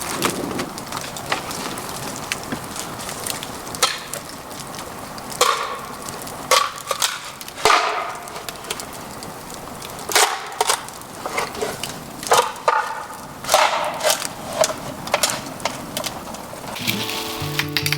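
Bamboo crackling and snapping in irregular sharp cracks over a steady hiss.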